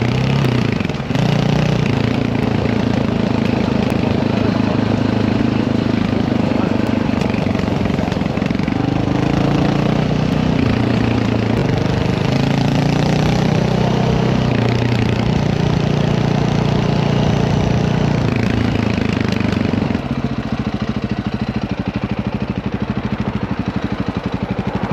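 Dirt bike engine running close by, its pitch shifting with light throttle for about twenty seconds, then settling to a steady, quieter idle.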